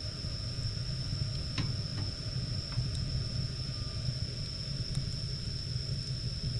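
Wood fire burning with a steady low rumble and a few sharp crackles and pops. A thin, steady high whine sits behind it.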